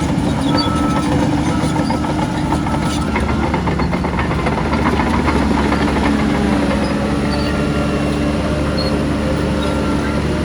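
Diesel engines of heavy earthmoving machinery running steadily, with metallic clanking about three seconds in. A reversing alarm beeps faintly about once a second.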